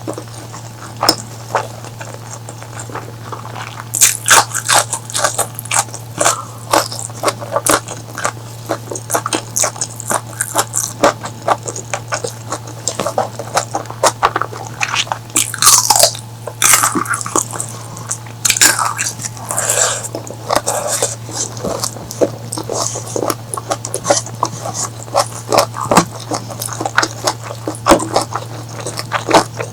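A person chewing and biting food close to the microphone, with many short sharp clicks in an uneven stream, over a steady low hum.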